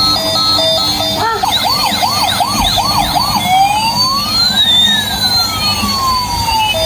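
Battery-powered toy ambulance's electronic siren: a fast beeping pattern that switches about a second in to quick up-and-down yelps, then to one long slow rising and falling wail.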